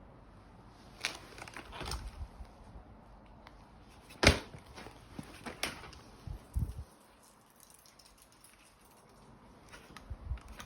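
Scattered clicks and knocks of objects being handled, the loudest about four seconds in, with two dull low thumps a little after six seconds.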